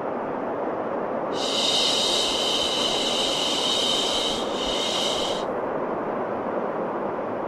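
Steady white noise for soothing a baby to sleep, with a long, high 'shh' shushing sound laid over it from about a second and a half in, breaking briefly and then stopping about two seconds before the end.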